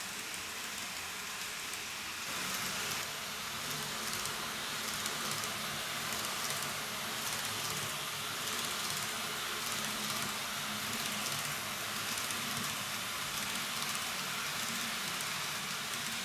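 TOMIX N-gauge 583 series model train running on its track: a steady whirring hiss of wheels and motor that grows louder about two seconds in, then holds.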